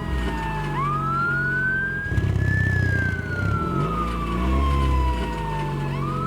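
Fire truck siren wailing in a slow rise and fall: it climbs for about two seconds, sinks for about three, then starts climbing again near the end, over a low steady rumble.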